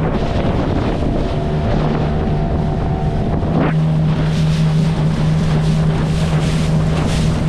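Small boat's outboard motor running at a steady speed, with wind buffeting the microphone.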